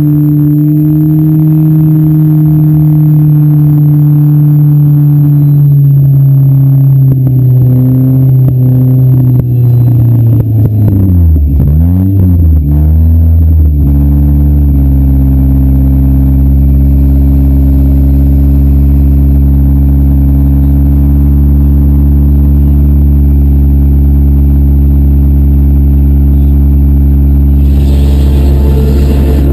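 Demolition derby car's engine running loud and steady at raised revs, sagging slowly, then dropping about twelve seconds in and settling into a steady lower, idle-like note for the rest.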